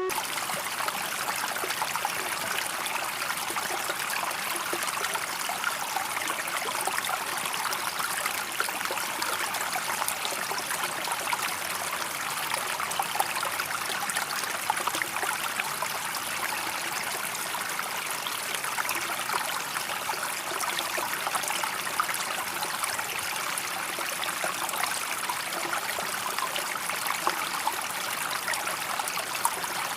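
Water running and splashing steadily, an even rushing sound with no engine tone heard over it.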